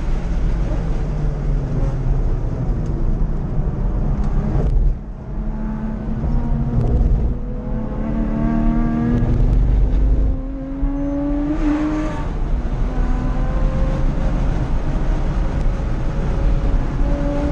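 Porsche 911 Carrera (997) flat-six heard from inside the cabin over steady road and wind noise. The engine note falls away as the car brakes hard about five seconds in, then climbs steadily in pitch under acceleration. It dips briefly at a gear change about ten seconds in and climbs again.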